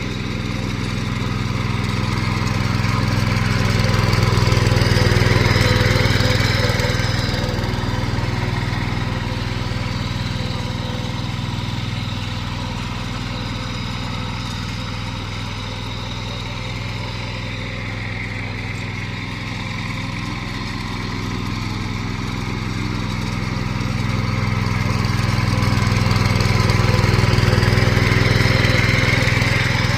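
Power weeder's 10 hp petrol engine running steadily in gear, its sound swelling louder a few seconds in and again near the end.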